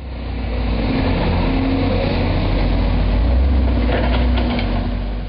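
Heavy earth-moving machinery running, a steady low engine rumble that swells slightly in the middle.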